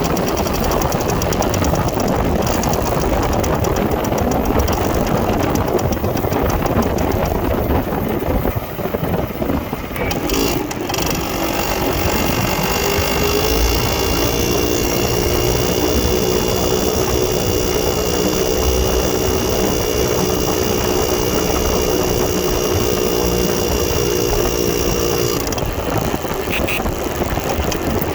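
1969 Harley-Davidson Aermacchi Rapido 125's two-stroke single-cylinder engine running. Its sound dips briefly about ten seconds in, then holds a steady pitch for about fifteen seconds.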